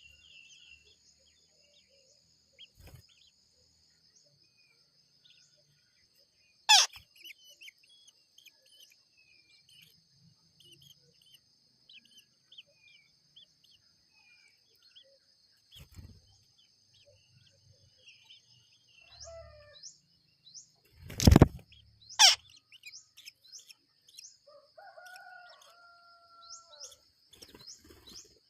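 Short scattered bird chirps over a steady high-pitched whine. Loud sharp clicks come once about a quarter of the way in and twice close together about two-thirds through, and a held call at two steady pitches comes near the end.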